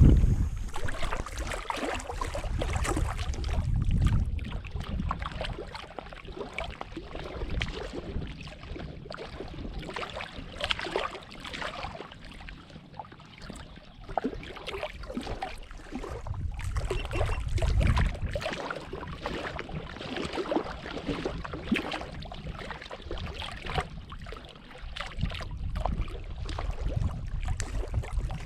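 Water lapping and splashing against a kayak's hull, with wind buffeting the microphone in gusts, strongest near the start, about four seconds in and again around seventeen to eighteen seconds in.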